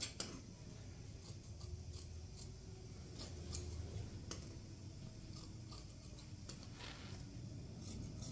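Scissors snipping: a scattering of short, irregular cuts over a steady low hum.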